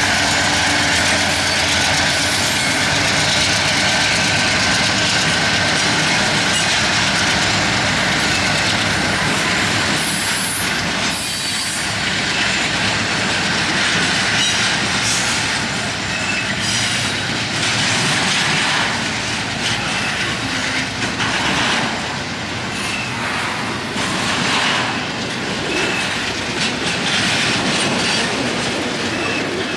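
Union Pacific double-stack intermodal freight train passing close by: a steady, loud rumble of the container cars' wheels rolling over the rails.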